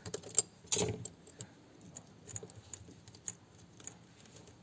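Small sharp clicks and taps of a tool working on the metal back cover of a Sanyo calculator watch while it is being opened, two louder ones about a second in, then lighter scattered ticks.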